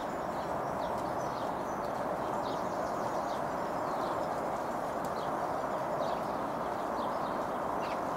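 A steady rushing hiss, with a small bird chirping repeatedly over it in short high notes.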